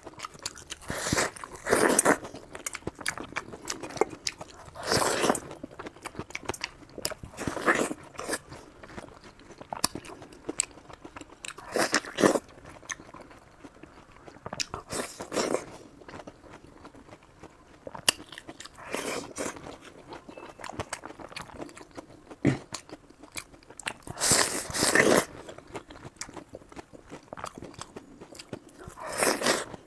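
Close-miked biting and chewing of crunchy food: loud crunches every two to four seconds, with quieter wet chewing between them.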